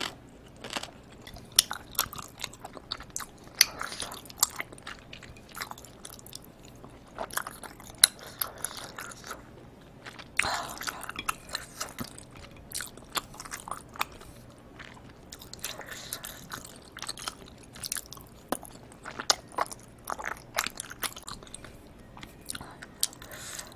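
Close-miked chewing of spicy tteokbokki rice cakes: short sticky mouth clicks at irregular intervals, with a few longer wet bursts.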